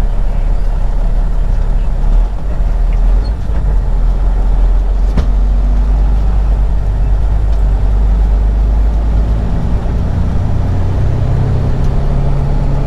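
Semi truck's diesel engine running at low speed through a turn, heard from inside the cab as a steady low rumble. There is a single click about five seconds in, and the engine note grows clearer near the end.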